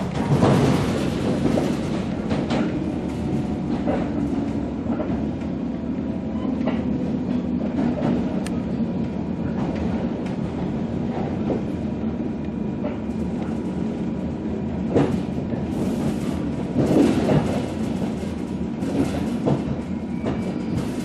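JR 115 series electric train heard from inside the passenger car, running along the line with the steady hum of its MT54 traction motors. The wheels clack over rail joints every few seconds, with a cluster of louder clacks near the end.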